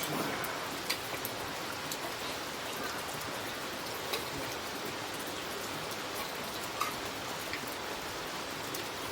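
Steady rain falling, with scattered louder drops landing every second or so.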